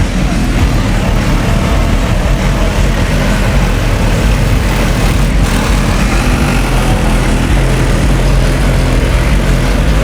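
A car running steadily, with a constant low engine and road rumble.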